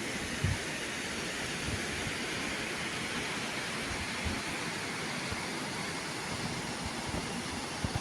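Steady rushing wind and road noise on a moving motorcycle, with a few brief low thumps.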